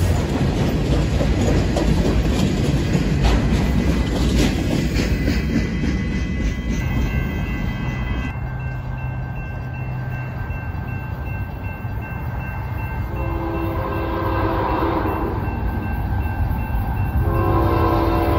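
Freight cars rolling past with wheels clicking over the rail joints. Then, after a sudden change, a diesel locomotive's air horn sounds a long blast and starts a second one near the end, as the train approaches a grade crossing.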